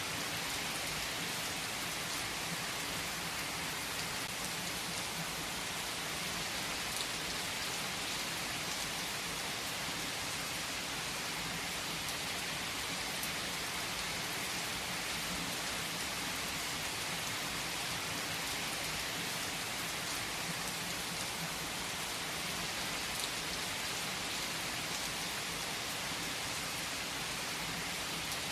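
Steady rain falling on a surface: an even hiss with a few faint single drop ticks.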